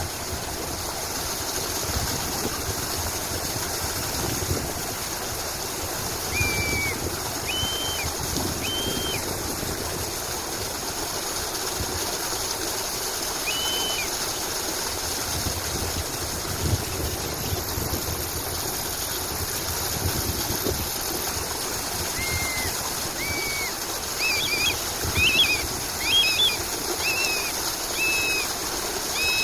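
Small birds giving short, arched chirping notes, a few scattered ones at first and then a busier run of chirps over the last several seconds, over a steady rushing background like running water.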